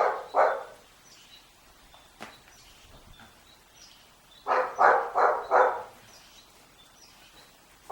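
A dog barking: two barks at the start, then a quick run of four barks about four and a half seconds in.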